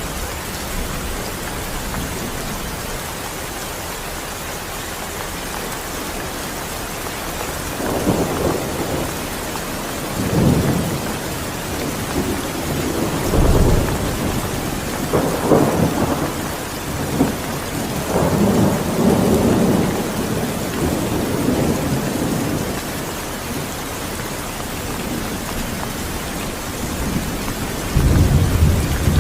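Steady rain hissing throughout, with low rolling thunder rumbles that swell several times: a third of the way in, through the middle, and again near the end.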